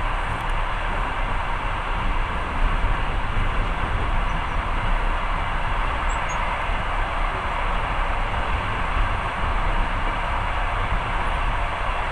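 Long-distance passenger train running along the track, heard from inside the carriage: a steady rolling rumble of wheels on rails.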